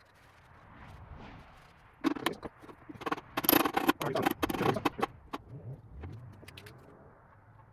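Metal parts of a drill press clinking, clattering and scraping while being handled and taken apart, busiest from about two to five seconds in.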